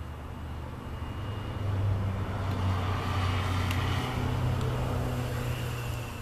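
A motor vehicle's engine passing by: a low steady hum that swells about a second and a half in and eases off near the end.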